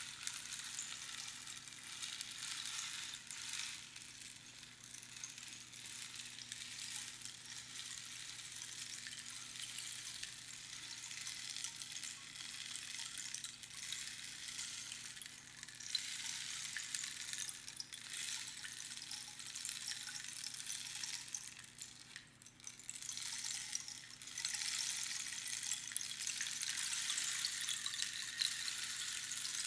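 Rainstick: small pebbles trickling down through a hollow tube past the pins inside, making a continuous rain-like patter. The patter swells and fades in waves, thins out briefly a little past the middle, and grows fuller toward the end.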